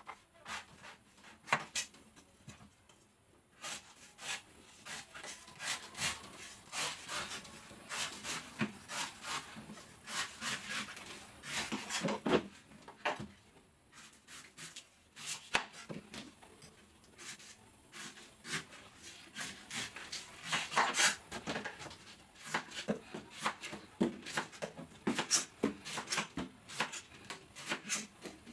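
A blade chopping and shaving the husk of a fresh coconut: many sharp, irregular cuts with scraping strokes between them.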